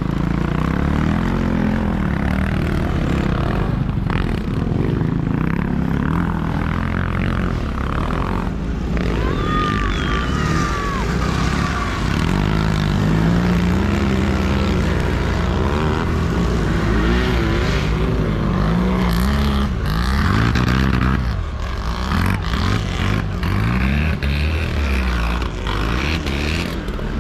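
Several sidecar motocross motorcycles racing, their engines running hard with pitch rising and falling again and again.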